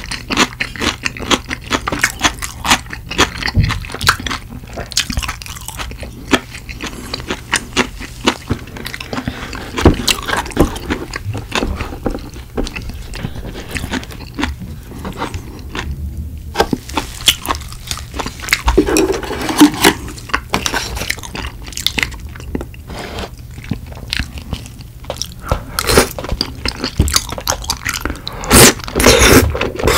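Close-miked eating sounds: a man chewing and biting, with crunchy and wet mouth noises, as he eats tteokbokki rice cakes in spicy red sauce.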